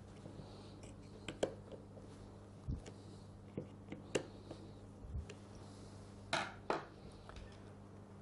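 Faint scattered clicks and light knocks of small parts and tools being handled while reassembling a Bosch GSH 5 demolition hammer, with two short scraping sounds near the end, over a steady low electrical hum.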